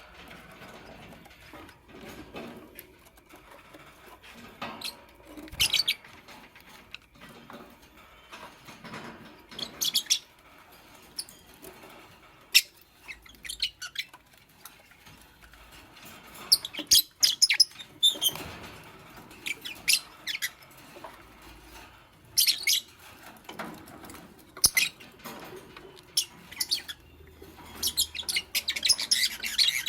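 Fischer's lovebirds giving short, sharp, high chirps in scattered bursts, with a quick run of chirps near the end, over light scratching and rustling.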